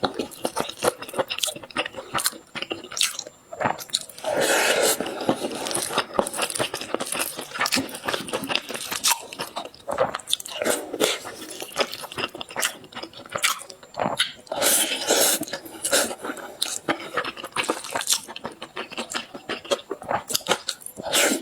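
A person biting into and chewing crunchy food close to the microphone, in dense, irregular crackles with louder bites now and then.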